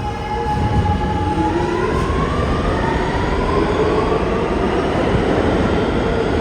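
New York City subway train accelerating out of the station: the propulsion whine rises slowly in pitch over the rumble of the wheels on the rails.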